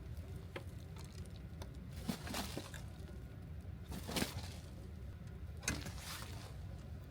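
Several short scraping, crunching noises of gear being handled in snow and ice while camp is packed up, the loudest about four seconds in, over a steady low rumble.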